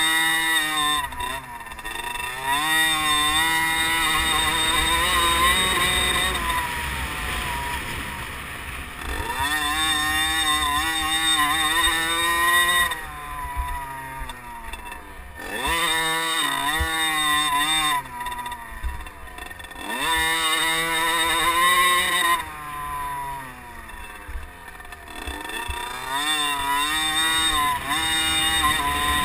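Small two-stroke 50cc motocross bike engines racing round a track. The engine note climbs steeply under throttle and drops back again and again, with the sound swelling and fading as bikes come near and move off.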